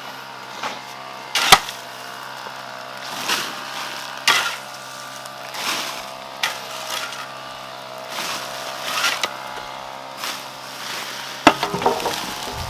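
Hand-tool work: a series of short scraping strokes, roughly one every second or so, with a sharp knock about a second and a half in, over a faint steady hum.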